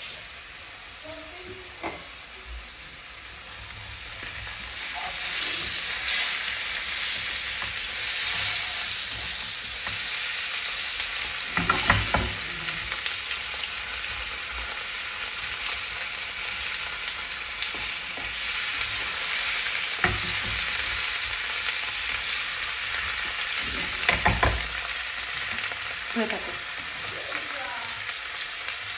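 Potato wedges and ground spices sizzling in hot oil in a nonstick frying pan while the spice masala is sautéed. The sizzle grows louder about four seconds in, with a few knocks and scrapes of a spatula against the pan as it is stirred.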